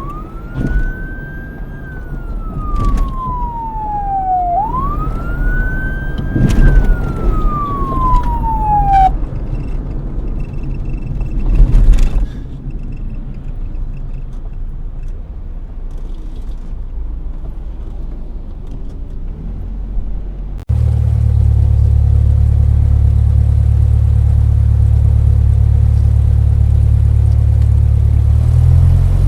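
Emergency vehicle siren wailing, sweeping slowly up and down twice over the low rumble of the vehicle, then stopping about nine seconds in while the rumble carries on. About twenty seconds in, the sound cuts abruptly to a loud, steady engine drone.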